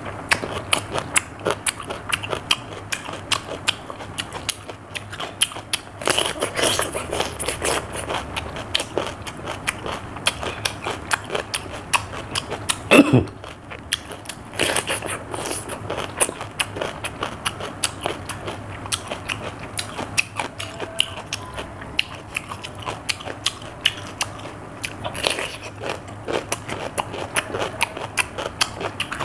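Crunching and chewing of raw cucumber, with crisp bites into the flesh throughout. About halfway through there is one short, louder sound that falls in pitch.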